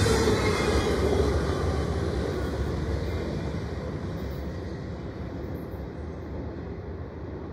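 Rumble of an intermodal freight train's trailer-carrying cars rolling over the rails, fading steadily as the end of the train moves away.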